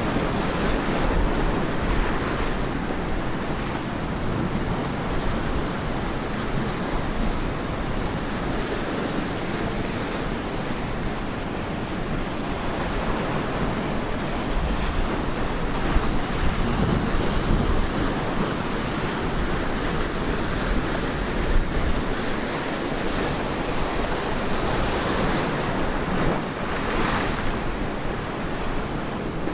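Ocean surf breaking on a beach: a continuous wash of waves, with louder breaking waves about a second in and again near the end.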